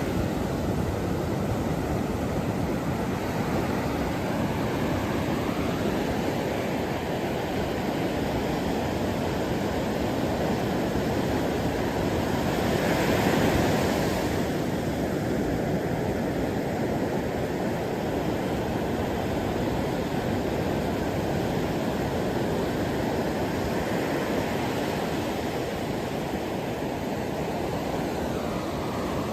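Steady wash of ocean surf, with one wave swelling louder about halfway through.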